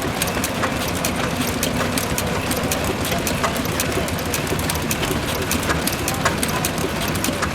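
Richard Hornsby stationary petrol engine running steadily, its sound made of many sharp ticks a second over a low drone.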